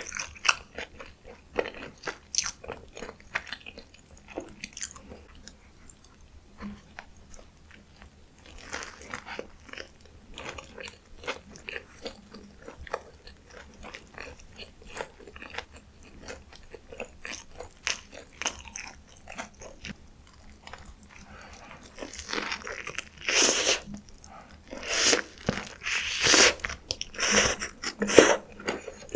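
Close-miked eating of a McDonald's burger meal: soft, wet chewing clicks, then louder crunching bites in the last several seconds.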